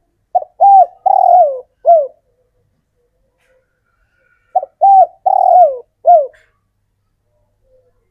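Male spotted dove cooing, its advertising call for drawing in females: two identical four-note phrases about four seconds apart, each a short note, a slurred note, a longer note falling in pitch and a final falling note.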